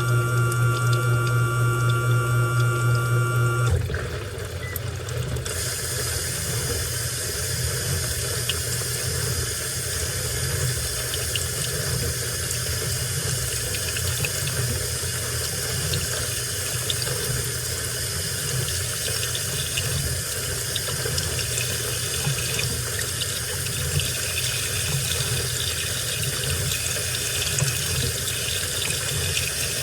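Washing machine running water into its drum, a steady rush and splash. For the first four seconds a loud steady machine hum runs over it, then cuts off.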